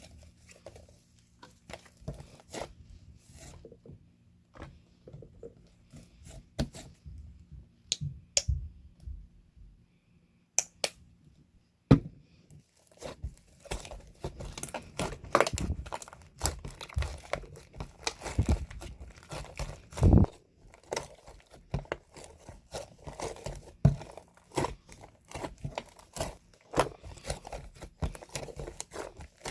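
Irregular crinkling and tearing handling noises with scattered clicks and taps, sparse at first and much busier from about halfway through.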